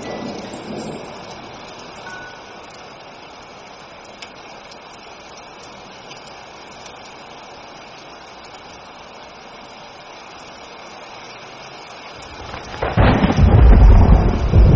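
Thunderstorm: steady rain hiss, with a rumble of thunder fading out in the first couple of seconds, then a loud clap of thunder breaking near the end and rumbling on.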